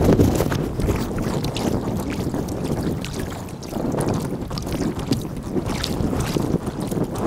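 Kayak paddling in sped-up time-lapse audio: paddle strokes dipping and water splashing against the boat, with wind buffeting the microphone.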